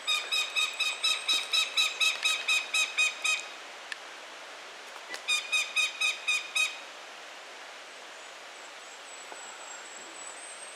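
A hawk calling two rapid series of sharp, repeated notes at about four or five a second: a run of about three and a half seconds, then after a short pause a second run of about a second and a half.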